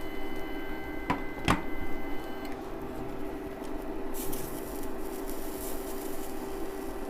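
Sausages sizzling in a frying pan, the sizzle rising to a louder hiss about four seconds in, over a steady hum. Two sharp clicks come a little after a second in.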